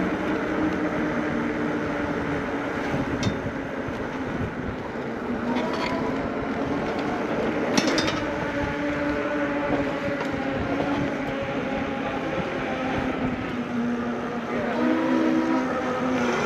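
Riding noise on an electric bike: steady wind and rolling noise on the microphone, with a humming tone that shifts up and down in pitch, and a couple of sharp clicks.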